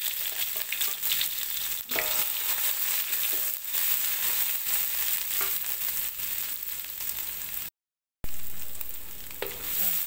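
Ingredients sizzling and crackling in hot cooking oil in an aluminium wok, with a wooden spatula scraping and stirring. The sound drops out for about half a second around eight seconds in.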